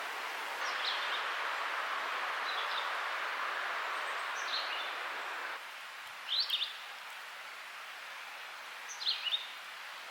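A songbird giving short, high chirps every couple of seconds, the last two the loudest, over a steady outdoor hiss that drops lower about halfway through.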